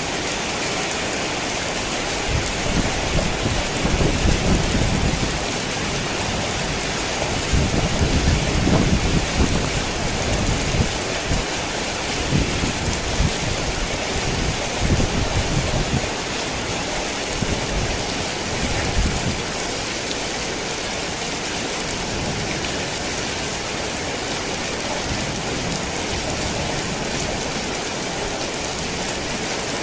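Heavy rain falling steadily as an even hiss. Deep rolling thunder rumbles in several waves from a couple of seconds in until about two-thirds through.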